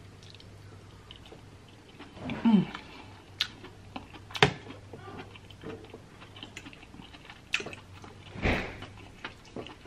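Close-miked eating sounds: soft chewing and mouth noises from a mouthful of creamy seafood pasta, a brief hum falling in pitch about two seconds in, and a few sharp clicks of a metal fork against the glass baking dish, the loudest about four and eight seconds in.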